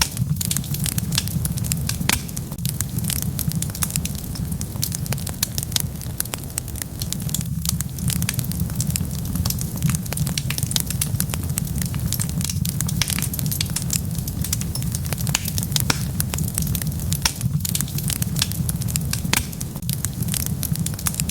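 Wood fire crackling: a dense, irregular run of small sharp pops and snaps over a steady low rumble of burning.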